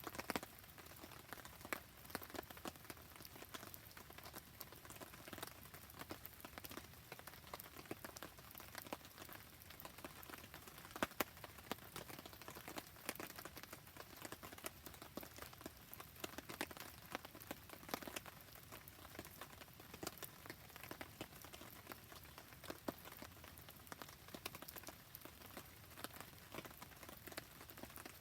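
Wood campfire burning in steady rain: a faint, even hiss of rain with many small sharp pops and ticks throughout, and one louder crack about eleven seconds in.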